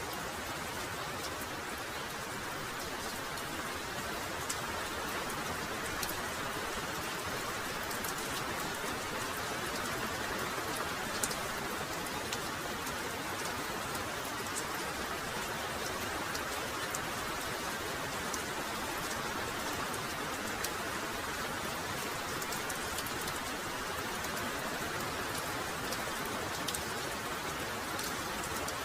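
Heavy rain falling steadily: a continuous hiss with scattered sharper drop hits.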